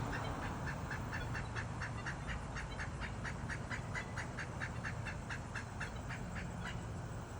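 Pileated woodpecker calling: a long, fast series of loud, even 'wuk' notes, about five or six a second, briefly breaking off near the end before starting again.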